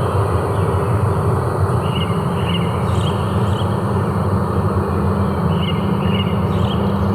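Forest ambience: a steady rushing noise underneath, with short high chirps in groups of two or three that come back every few seconds.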